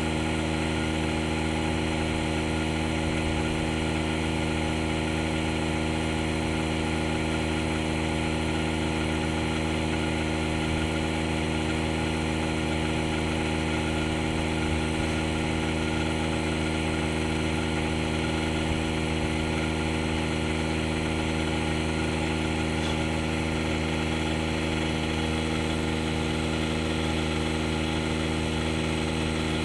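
DeWalt DCC020I cordless air inflator's compressor running steadily while pumping up a tire, a constant motor hum that holds the same pitch throughout.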